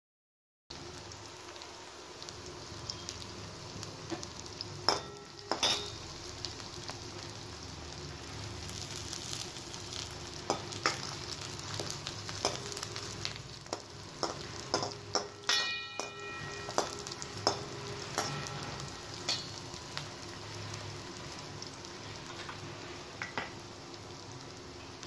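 Sliced shallots and whole spices sizzling in hot oil in a stainless steel kadai, starting after a moment of silence. A steel spoon stirs them, clinking and scraping against the pan now and then, most often around the middle, and once it rings briefly.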